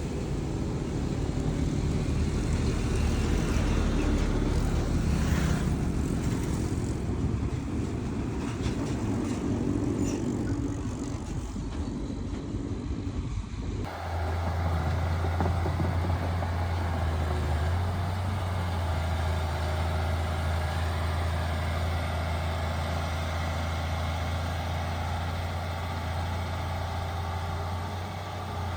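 Heavy diesel engines of earthmoving machinery running: a mixed rumble of working machines, then an abrupt change about halfway through to one steady low engine drone.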